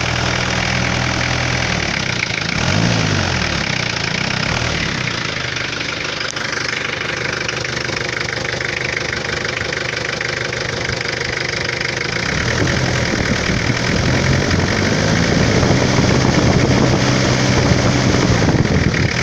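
Nissan Big M pickup's TD25 four-cylinder diesel engine idling, with two quick throttle blips, rise and fall, about two to four seconds in, then running faster and louder from about two-thirds of the way through.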